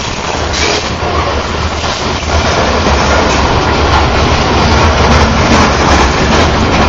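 Covered hopper cars of a freight train rolling past close by: a steady rumble and clatter of steel wheels on rail, growing louder about two and a half seconds in.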